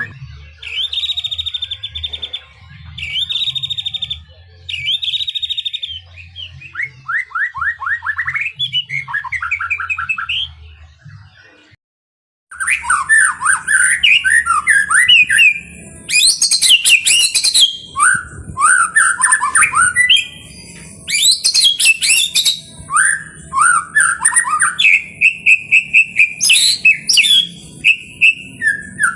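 White-rumped shama singing. It opens with three buzzy trilled phrases and then runs of quick falling notes. The sound cuts out briefly about twelve seconds in, then comes back as a dense stretch of loud, varied whistles and rattling phrases.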